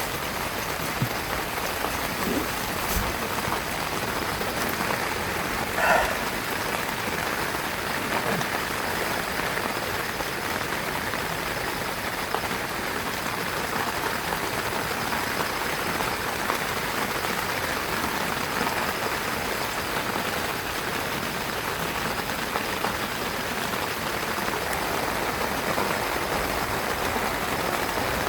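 Heavy rain falling steadily on a tent, an even hiss and patter, with one short louder sound about six seconds in.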